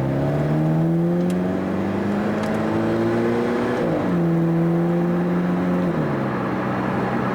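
Car engine heard from inside the cabin, its pitch climbing slowly as the car accelerates. About four seconds in a gear change drops the pitch, which then holds steady before dropping again about six seconds in.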